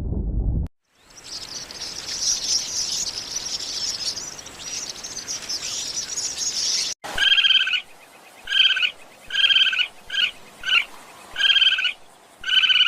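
Bird calls: about six seconds of high, dense chirping, then a run of short, clear, pitched calls repeated about once a second.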